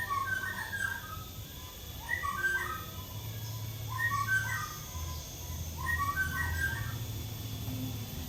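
White-rumped shama (murai batu) singing four short phrases of clear whistled notes, each about a second long and a couple of seconds apart, over a low steady hum.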